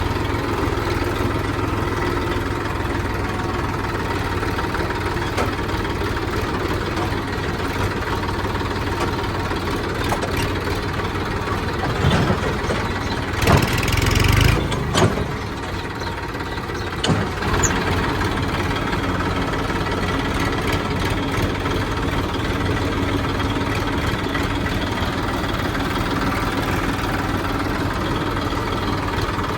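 Heavy diesel machinery engine running steadily, with a short louder burst of noise and a few sharp knocks about halfway through.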